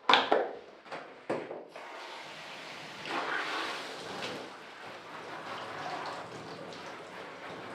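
Three sharp knocks, then water running steadily for a dog's bath, the spray swelling about three seconds in.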